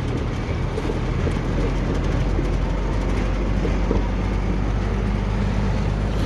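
Truck running down the road: a steady low engine drone under even road noise, with no change in pace.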